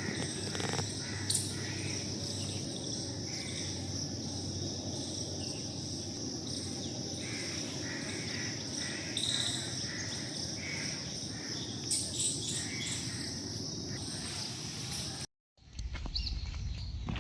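Insects trilling in a steady, high, unbroken drone, with scattered bird calls over it. About 15 seconds in it cuts off abruptly, and a different scene follows with a low hum and short chirps.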